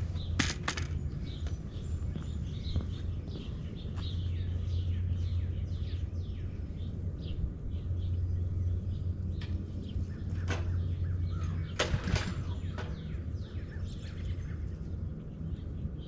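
A gas pressure washer's pull-start cord is yanked a few times, once about half a second in and again a couple of times near the ten-to-twelve-second mark, without the engine catching. The failure to start is put down to too much water pressure in the supply line. Underneath are a steady low hum and birds chirping.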